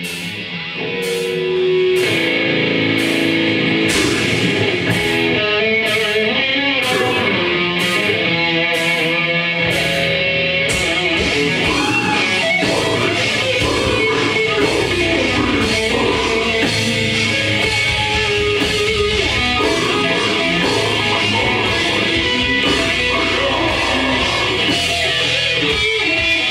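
Live grindcore band playing: distorted electric guitar over drums with evenly spaced cymbal hits. It gets louder about two seconds in and fills out with a heavy low end from about ten seconds in.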